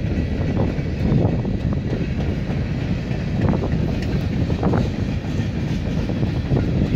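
Freight train cars rolling past on the rails: a steady rumble with scattered short clacks from the wheels.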